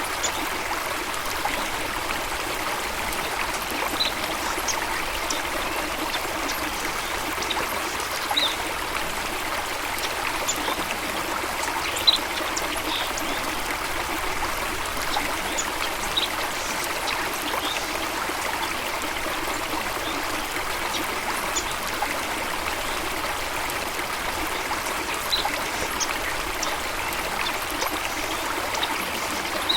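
Running water flowing steadily in a stream or small waterfall. Short high chirps break in every few seconds, one louder near the middle.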